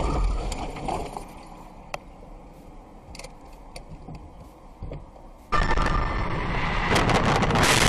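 Dashcam recording of a car crash: vehicle noise dies away after the impact, leaving a quieter stretch with a few scattered clinks and ticks. About five and a half seconds in, loud road noise cuts in abruptly and builds.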